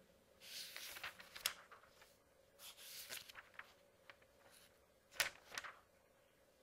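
Paper pages being turned one after another, about three turns. Each is a soft rustle, and two end in a crisp flick of the page.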